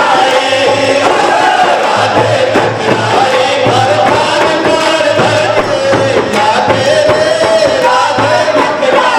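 Loud devotional Shyam bhajan music: voices singing a wavering melody over a steady drum beat, with a crowd joining in.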